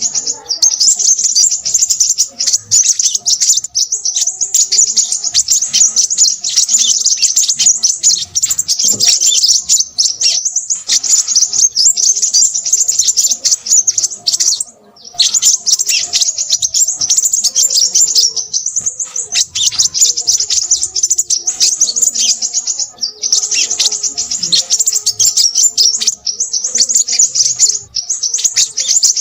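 Crimson sunbird singing a rapid, high-pitched twittering chatter almost without pause, with one short break about halfway through.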